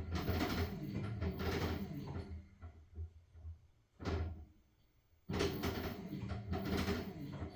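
LG washing machine drum turning a load of blankets, with a steady motor hum and a rhythmic swish of fabric. It winds down to a stop about two and a half seconds in, gives one short swish, and after a second of near quiet starts turning again suddenly: the drum pausing and reversing direction in a wash cycle.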